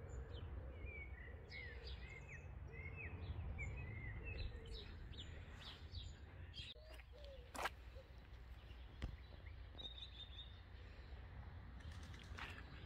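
Small birds chirping: a quick run of short chirps in the first few seconds, then scattered calls, over a faint steady low outdoor rumble. A single sharp click comes a little past halfway.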